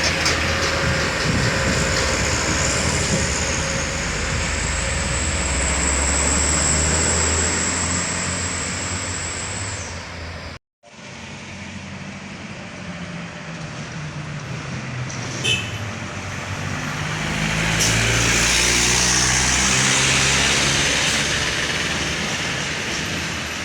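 Heavy diesel vehicles passing close by: a loud engine with a high, steady squeal over it, then after an abrupt cut a second heavy engine approaching, passing loudly and fading.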